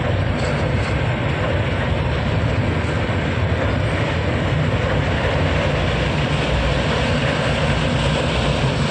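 Passenger coaches of an express train passing close by at speed: a loud, steady rumble of wheels on the rails.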